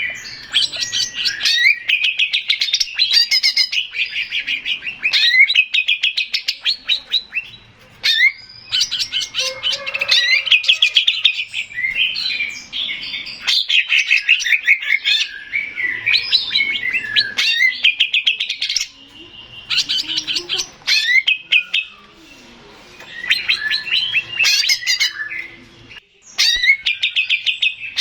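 Male leafbird (cucak ijo) singing a fast, varied song of chirps, trills and whistles in quick phrases. The song breaks off briefly three times in the second half.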